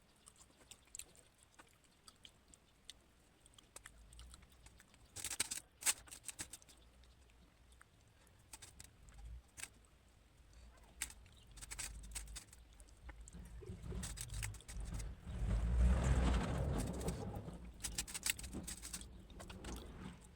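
Close-up eating sounds: small scattered clicks, smacks and ticks of someone eating paani bhaat (rice in water), with a cluster of sharper clicks about five seconds in and a louder, noisier stretch of handling near the end.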